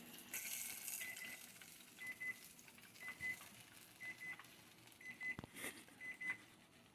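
Electronic kitchen timer beeping: short, high beeps in quick pairs, about once a second, signalling that the frying time is up. A faint knock sounds a little past the middle.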